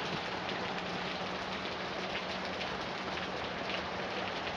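Heavy rain falling steadily, a dense even hiss of drops that does not let up.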